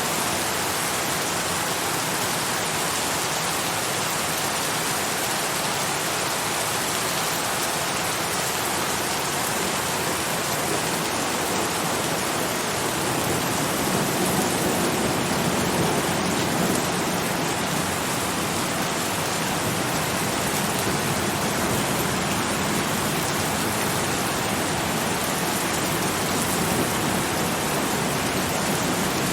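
Steady, dense rain falling, an even hiss with a slightly fuller, deeper patter from about halfway through.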